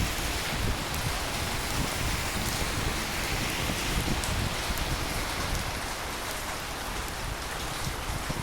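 Steady rain falling, an even hiss with fine drop ticks, over an uneven low rumble.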